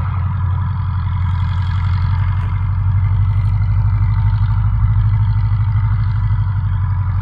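Steady low drone of a vehicle engine, holding an even pitch without revving up or down.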